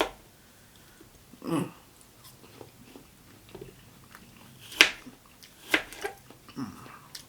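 Biting into and chewing crisp apple slices close to the microphone, with two sharp, loud crunches near the middle and smaller chewing clicks around them.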